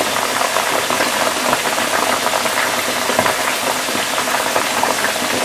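Duck heads frying in a pan of hot oil: a steady, dense sizzle full of small crackling pops. They are being fried briefly to firm the skin before braising.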